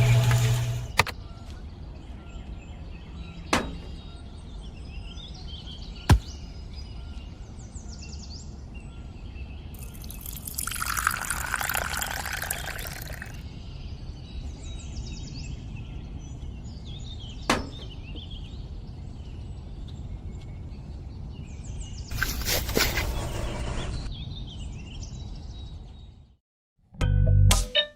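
Birds chirping over a steady low rumble, with a few sharp clicks and two longer bursts of rushing, splashing noise like water, about ten and twenty-two seconds in.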